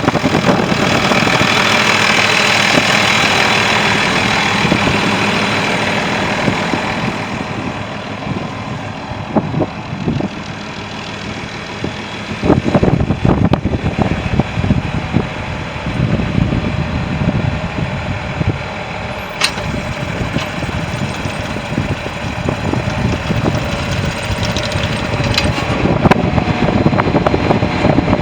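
John Deere 4630 tractor's six-cylinder diesel engine running at idle.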